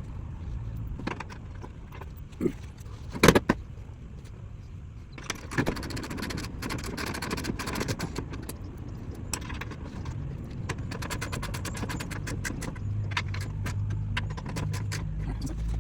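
Metal clinks, clicks and rattles of hand tools and mounting hardware while a fog light is fastened to a bumper bracket, with one sharper knock about three seconds in and quicker runs of clicking later.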